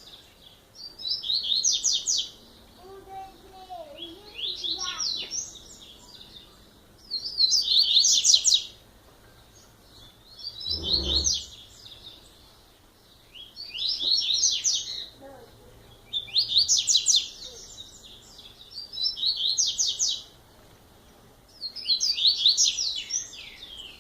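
Double-collared seedeater (coleiro) singing: a fast, twittering phrase of about a second and a half, repeated roughly every three seconds, about eight times. A brief low thump comes near the middle.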